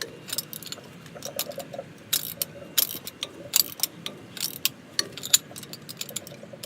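Socket ratchet wrench clicking in quick irregular runs, with metal clinks of the socket on the nuts, as the wheel spacer's nuts are tightened one at a time in a crisscross pattern.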